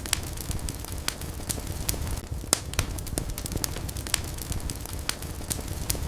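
Wood fire burning in a fireplace: a low steady rumble of flames under irregular sharp crackles and pops from the burning logs.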